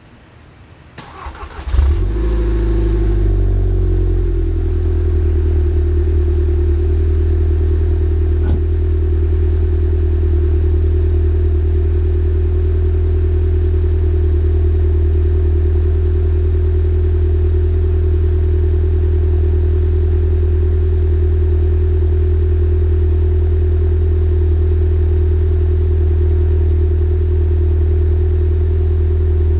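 2011 Volkswagen GTI Mk6's turbocharged four-cylinder, breathing through an SPM custom turbo-back exhaust, cold-started: the starter cranks briefly about a second in, and the engine catches with a loud flare at about two seconds. Within a couple of seconds it settles into a steady cold idle.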